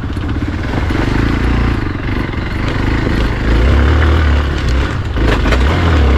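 Motorcycle engine running, getting louder about four seconds in, with a few sharp knocks near the end.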